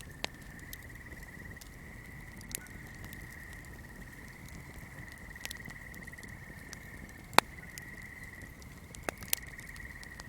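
Swamp ambience: a steady, high trilling chorus runs throughout, while a candle flame gives off sharp, irregular crackles and pops, the loudest about seven seconds in and a quick pair near the end.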